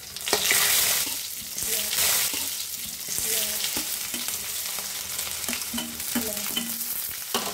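Garlic, sliced onion and green chillies frying in hot oil in a wok with bay leaves and dried red chillies: a steady sizzle that flares up loudly twice in the first two seconds, with a few sharp clicks.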